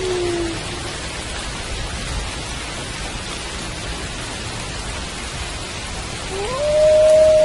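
Steady rain hiss. A wolf's howl falls away and fades out about half a second in, and another howl rises about six and a half seconds in and is then held on one note.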